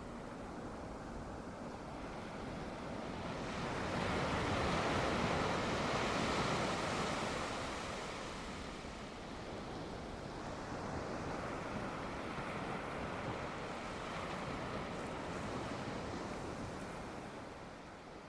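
Sea waves breaking and washing up a shore, one swell loudest a few seconds in and a smaller one in the second half, dying away near the end.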